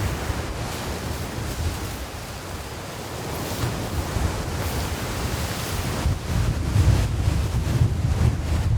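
Sea waves washing onto the beach in a strong wind, with gusts buffeting the microphone as a low rumble that gets heavier about six seconds in.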